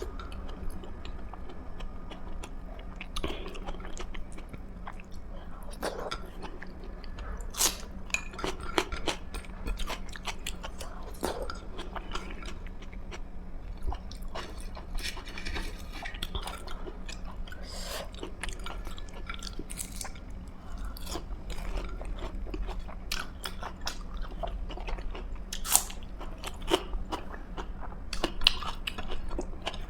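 A person chewing and biting food close to the microphone, with irregular crunchy clicks and wet mouth sounds. A steady low hum runs underneath.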